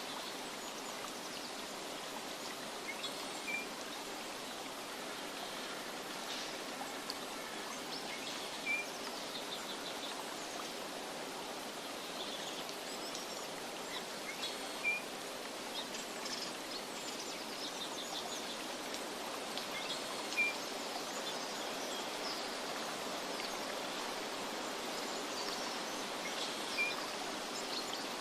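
Nature ambience: a steady rush of running water with birds chirping over it, one short high chirp coming back about every six seconds.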